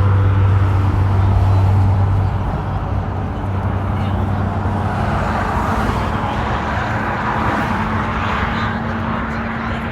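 Road traffic noise: a motor vehicle running close by with a steady low hum over a continuous rushing sound, the hum fading after about two seconds.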